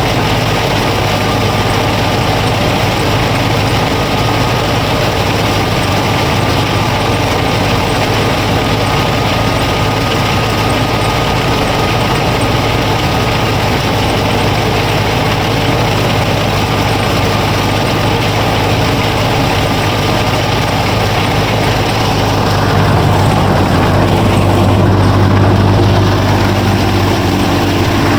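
Mini combine harvester's motor and threshing mechanism running steadily, a low hum with a thin high whine over it. About two-thirds of the way through it grows louder and heavier in the low end for a few seconds, then eases back.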